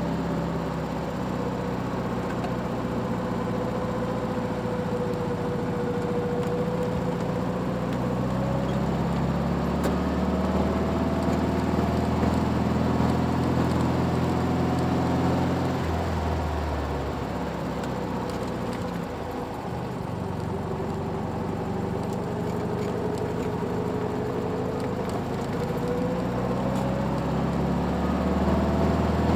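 VW Beetle's air-cooled flat-four engine idling steadily, its note changing and unsettled for a few seconds about halfway through before it settles again.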